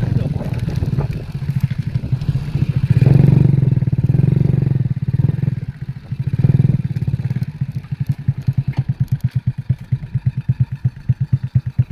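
Excavator's diesel engine running, swelling in level twice as it works under load, then settling into an even pulsing of several beats a second.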